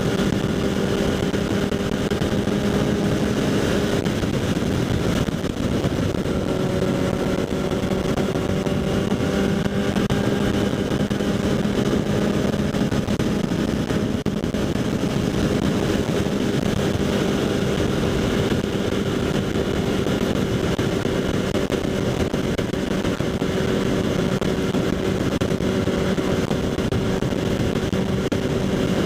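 Kawasaki Z800's inline-four running through a LeoVince SBK aftermarket exhaust at a steady cruise. The engine note dips briefly about five seconds in, over wind rush at the helmet-mounted microphone.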